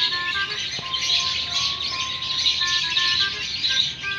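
Dense bird chirping with a simple electronic melody of held, stepping notes playing over it.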